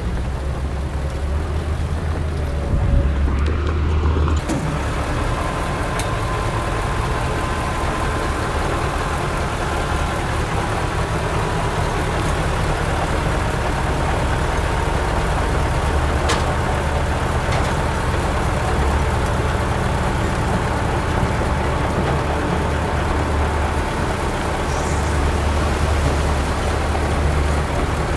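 Heavy diesel earthmoving machinery running steadily with a deep, continuous rumble. A faint high whine sits over it from about five seconds in.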